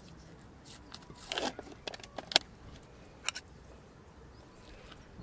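Handling sounds from camp gear: a short scrape about a second and a half in, a sharp click a little later, then two quick clicks.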